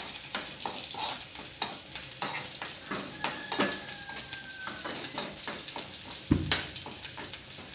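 Sliced onions and curry leaves sizzling in hot coconut oil in a metal kadai as they are stirred, with frequent short scraping clicks against the pan and a dull knock about six seconds in. The onions are at the stage of just starting to change colour.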